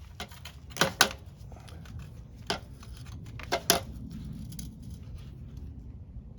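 Sharp clicks and snaps of small parts being worked by hand while the headlight wiring of a 1967 Honda CT90 is pulled off, in two quick pairs about a second and three and a half seconds in, with a single click between, over a steady low hum.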